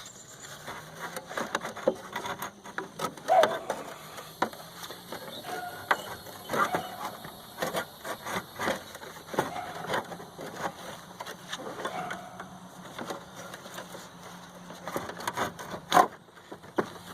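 Irregular knocks, clicks and rattles of the metal parts of a window air conditioner being handled as the coil is worked loose, with a sharp knock near the end.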